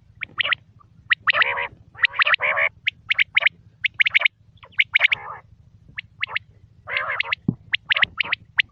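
Quail calling continuously: quick, sharp, high calls in rapid clusters, mixed with longer, rougher calls.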